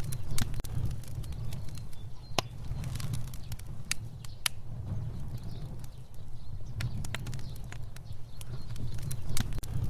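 Fire burning: a steady low rumble of flames with sharp crackles and pops at irregular intervals, the loudest near the start and near the end.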